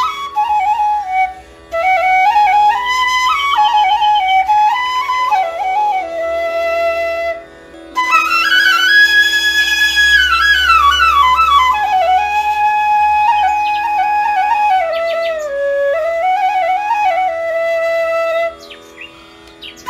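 Background music: a solo flute melody over a steady drone, with long held notes and two brief pauses.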